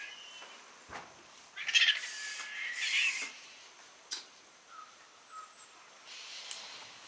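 Birds calling: a loud, harsh, raspy call lasting over a second about two seconds in, then two short chirps, and a softer hissing call near the end.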